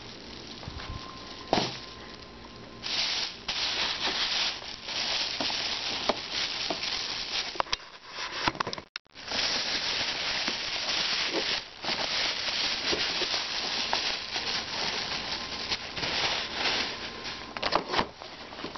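Packaging rustling and rubbing as it is handled and opened, with scattered small clicks and knocks; the sound drops out for a moment about nine seconds in.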